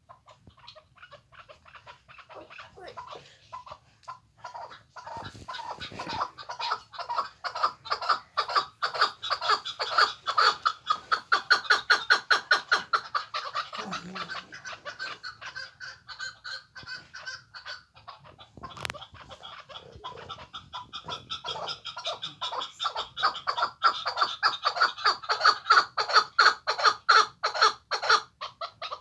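Chukar partridge (keklik) calling: a long, rapid series of clucking notes, several a second, that grows louder to a peak, eases off, then builds again in a second bout.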